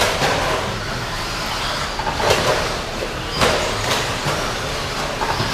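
Electric RC stadium trucks with 13.5-turn brushless motors racing: a steady mix of motor whine and tyre noise, with a couple of sharp knocks from the trucks about two and three and a half seconds in.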